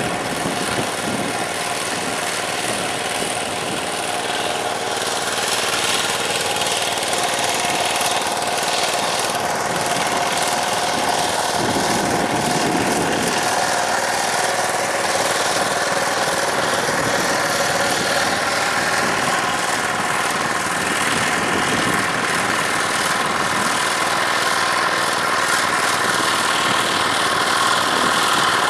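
Diesel tractor engine running steadily under work, with a steady whine over the engine noise, getting slightly louder near the end.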